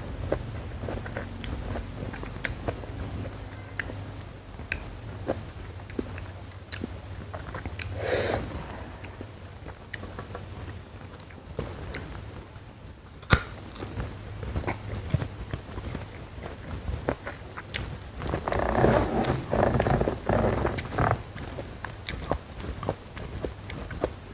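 Close-miked ASMR eating: scattered crisp bites and mouth clicks, with a short burst of crunchy chewing about eight seconds in and a few seconds of louder chewing near the end.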